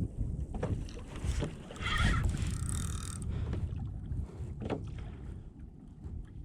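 Wind rumbling on the microphone, with a few sharp knocks and a louder stretch of hiss about two to three seconds in.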